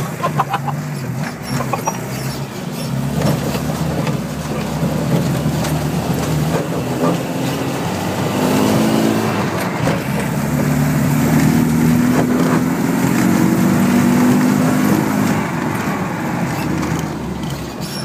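Land Rover Defender 90's diesel engine driving hard over rough off-road track, heard from inside the cab, with occasional knocks from the bumps. The revs climb about halfway through, hold high for several seconds, then ease off near the end.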